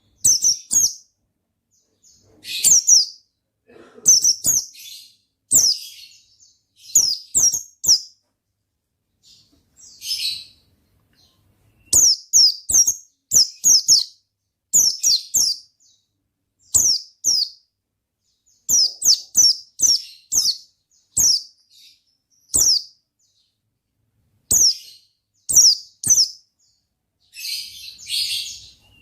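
White-eye (pleci) in full, vigorous song: quick, sharp, high chirps, each dropping in pitch, delivered in rapid clusters of two to four notes with short pauses between, and a couple of harsher chattering notes mixed in.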